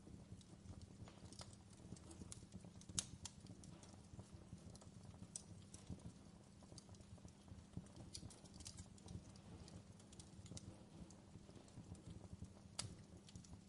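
Fireplace fire crackling softly: irregular faint pops and snaps over a low steady rumble, with a sharper pop about three seconds in and another near the end.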